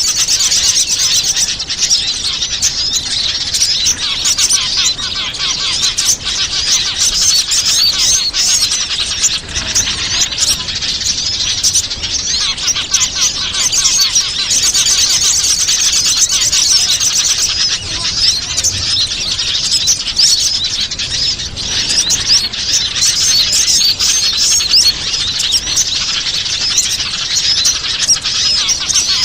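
Many small wild birds chirping and twittering at once in a dense, continuous chorus of high, rapid notes and trills: a bird-lure (pikat) recording played to call in small wild birds.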